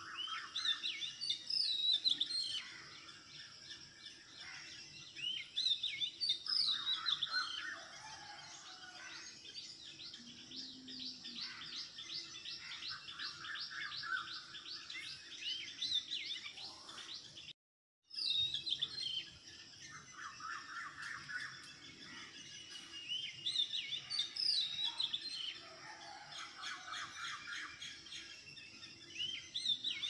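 Small birds chirping and twittering, with quick trills overlapping throughout; the sound cuts out completely for about half a second a little past halfway, then resumes.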